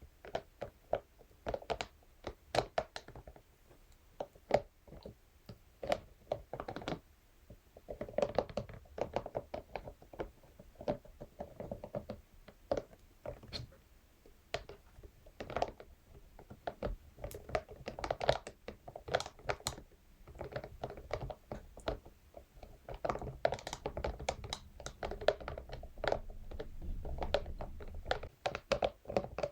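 Scalp massage brush tapping and scratching on a surface: quick, irregular taps and scrapes that come in clusters, some sharper and louder than others.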